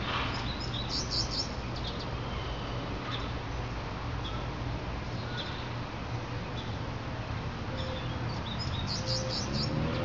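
Small birds chirping in short high bursts, once early and again near the end, over a steady low background rumble. Right at the end, a low multi-toned wail begins rising as a distant outdoor warning siren starts to wind up.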